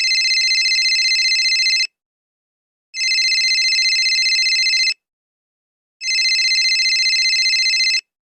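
Phone ringing sound effect: three trilling rings of about two seconds each, with a pause of about a second between them.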